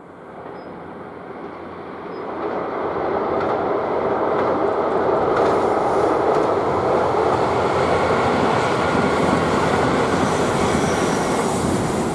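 JR Shikoku 2000 series diesel express train passing on the rails. Wheel and engine noise grows louder about two seconds in, then stays loud and steady.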